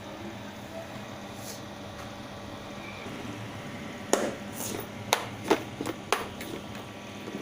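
Kitchen utensils knocking and clinking, a handful of sharp strikes in quick succession starting about four seconds in, over a steady low hum.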